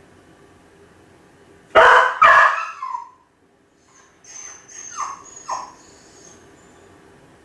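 Kai Ken dog left home alone, barking twice in quick succession about two seconds in, then a short falling whine and a few fainter whimpering yelps: the crying of a lonely dog waiting for its family.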